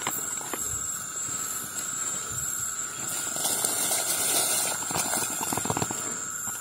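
Steady hiss of a pot of water heating for cooking, with a few light clicks.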